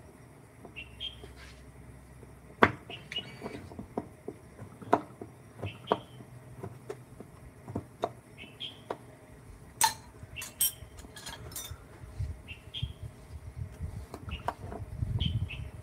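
Scattered sharp knocks and clicks, the way hand tools or small objects are set down or tapped, with a few short high chirps every couple of seconds and a low rumble rising near the end.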